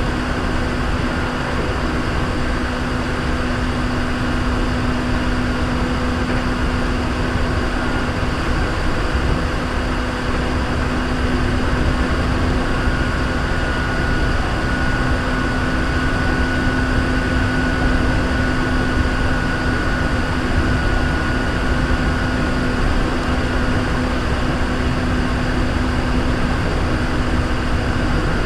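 Hankyu 3300 series electric commuter train running between stations, heard from inside the car: a steady rumble of wheels on rail with a constant low hum, and a faint higher whine that comes in about halfway through and fades out near the end.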